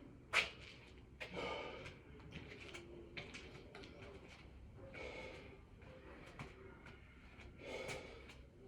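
A man breathing hard, with loud gasping breaths in and out, during a set of six-count burpees. Now and then there is a short sharp knock, typical of hands or feet landing on the floor.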